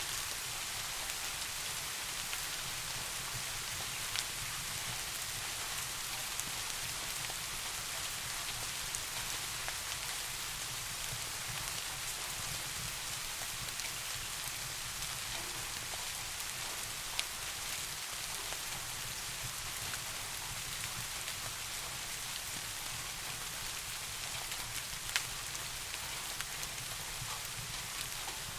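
Steady rain falling in an even hiss, with a few isolated sharp ticks, one near the start and two later on.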